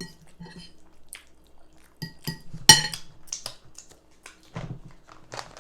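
Utensils and dishes clinking at a meal: a string of light clinks and knocks, the loudest about two and a half seconds in with a short ring.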